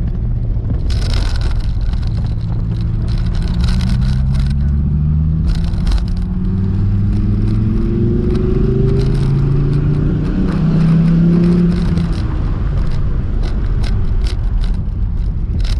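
Dodge Viper SRT's 8.4-litre V10 heard from inside the cabin under hard acceleration. Its note climbs again and again in stepped pulls as it goes up through the gears, loudest about eleven seconds in, then eases off near the end. Road and tyre noise runs underneath.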